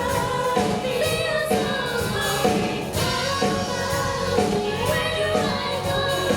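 Live band music with several voices singing together over a steady beat.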